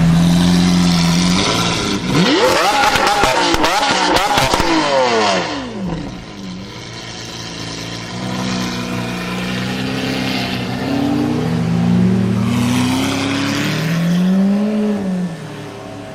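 Sports car engines: one running steadily at first, then several revving with rising and falling pitch for a few seconds from about two seconds in, followed by a few more rises and falls in revs.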